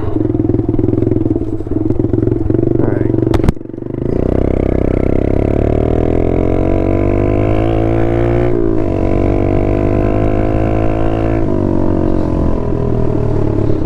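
Small dirt bike's engine being ridden hard, its pitch climbing steadily for several seconds, dropping briefly, then holding before easing off near the end. A single sharp click comes a few seconds in, just before the revs dip and build again.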